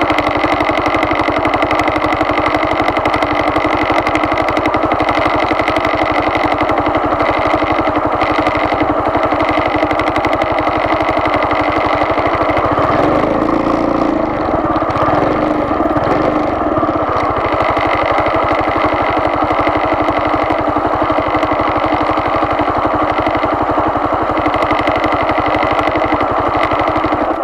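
A vehicle engine running at a steady speed, close and loud, with a brief change in its low note about halfway through. It cuts off abruptly at the end.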